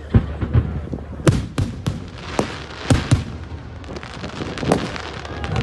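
Fireworks display: a rapid, irregular string of sharp bangs, with a hiss a little past two seconds in.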